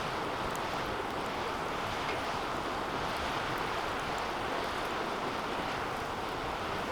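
Wood fire burning steadily in a DOD Mecha Moe Fire 2 metal fire pit: an even rushing of flames with a few faint crackles.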